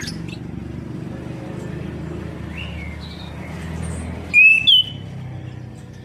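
Chestnut-capped thrush giving a loud, clear whistled phrase about four seconds in, rising and then stepping up in pitch, with faint chirps before it over a steady low hum.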